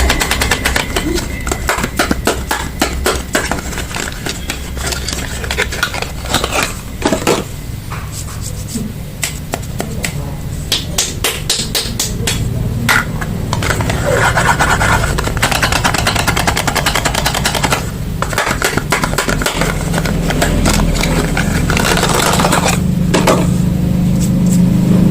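Soap packaging being unwrapped: fast crinkling and crackling of the wrappers, with a steady low hum underneath that grows louder near the end.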